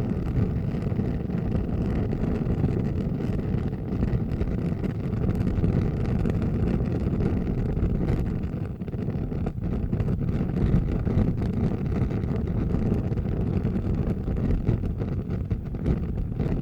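Large fire burning with a steady low rumble and faint crackling throughout.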